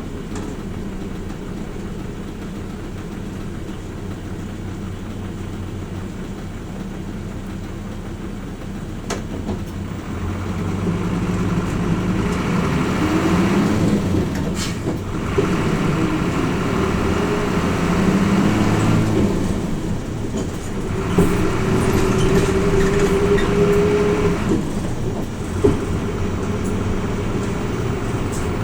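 Diesel engine of a Hino Rainbow RJ (P-RJ172BA) city bus, heard inside the cabin: it runs steadily and quietly for about ten seconds, then pulls harder as the bus accelerates. The engine note climbs and breaks off three times, at what look like gear changes.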